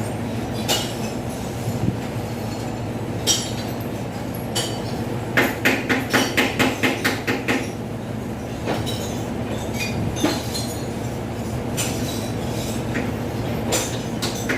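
A moving vehicle's engine runs with a steady low hum, while its body rattles and clanks, with a quick burst of repeated clanks midway.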